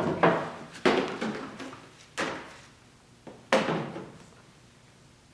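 A series of clunks and knocks, about five in the first three and a half seconds, each dying away with a short ring, as car dashboard parts are handled and tried for fit.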